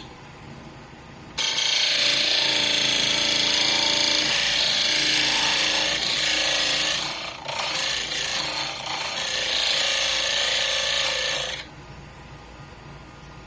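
Wood lathe running while a tool is worked against a spinning pine bowl: a loud rasping hiss starts about a second in, dips briefly past the middle, and stops near the end, leaving the quieter hum of the lathe.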